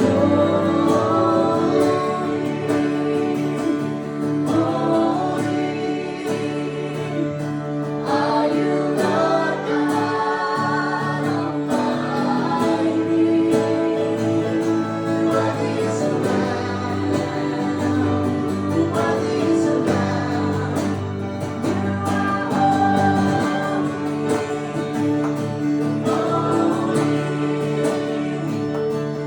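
Live acoustic worship music: voices singing a slow worship song over a strummed acoustic guitar.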